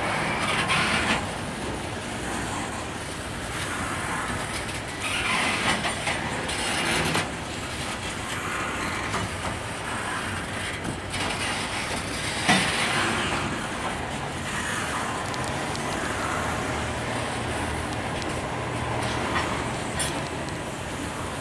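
Freight train's coal gondola cars rolling past: a steady rumble of steel wheels on rail, broken by irregular clacks, the sharpest about twelve seconds in.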